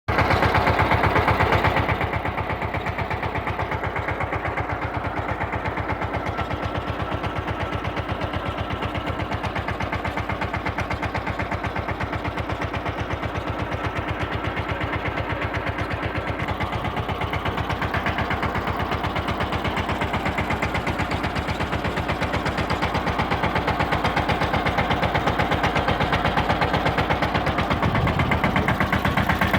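Captain mini tractor's diesel engine running steadily with an even, fast pulse. It is a little louder in the first couple of seconds and again near the end.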